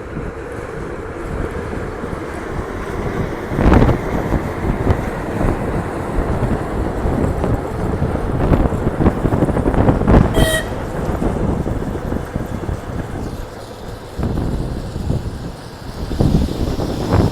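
ChS8 electric locomotive and its passenger train running with a steady rumble, with a short horn toot about ten seconds in.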